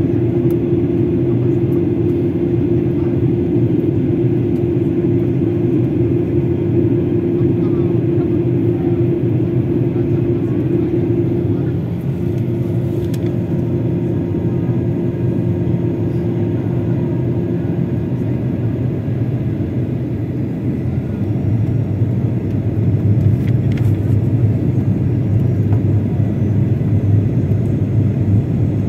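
Airliner cabin noise on approach to landing: steady engine and airflow rumble. A steady hum drops out about eighteen seconds in, and the low rumble grows louder a few seconds later.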